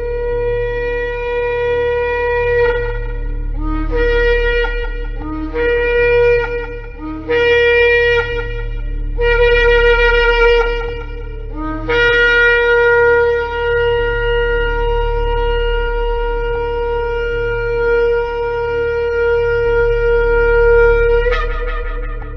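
Shofar (ram's-horn trumpet) blowing: one long blast, then four shorter blasts, each opening with a brief lower note, then a long held blast of about nine seconds that breaks upward in pitch as it ends.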